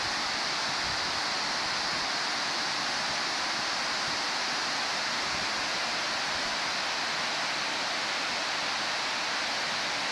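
Waterfall rushing steadily, a dense unbroken hiss of falling water.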